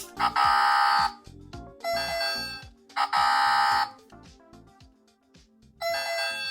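A small sound-making capsule toy playing short electronic buzzer-like tones through its tiny speaker, four bursts, with short clicks in between.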